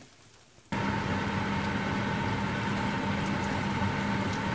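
Kebab patties frying in a pan of oil, a steady sizzle under a steady mechanical hum; both cut in suddenly just under a second in, after near silence.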